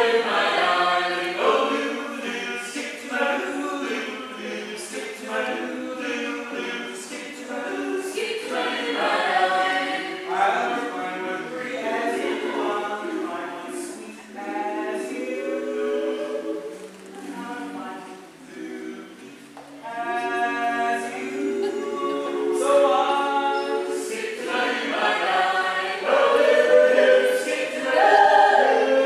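A choir singing, several voices together.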